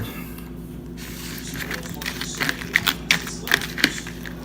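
Close-up chewing of crunchy peanut-butter cereal in milk: a run of sharp, crackly crunches, about three a second, starting after a quiet first second.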